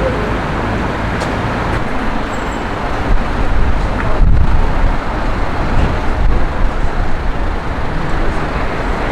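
Road traffic: a steady rumble of passing cars, growing louder about three seconds in as a vehicle goes by close.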